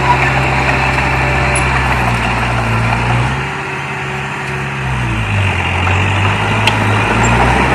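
Heavy diesel engine of earthmoving machinery running. Its note sags and drops in pitch around the middle, then climbs back up near the end, as the machine's load or throttle changes.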